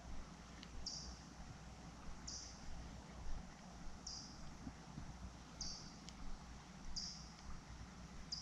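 Short, high chirps from a small animal, six of them at a steady pace of about one every one and a half seconds, with a few faint clicks.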